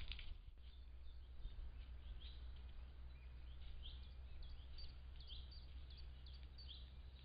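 Faint outdoor ambience: small birds chirping in many short, quick calls from about two seconds in, over a steady low hum, with a brief rustle at the very start.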